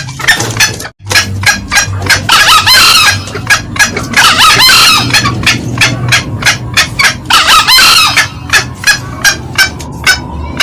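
Green junglefowl calling: rapid clucking at about four to five calls a second, broken by three louder, longer crows about two, four and a half, and seven and a half seconds in. A brief drop-out about a second in, and a steady low hum underneath.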